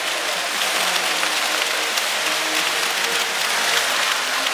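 Large football stadium crowd applauding and cheering: a dense, even wash of clapping with many voices mixed in, swelling slightly about a second in.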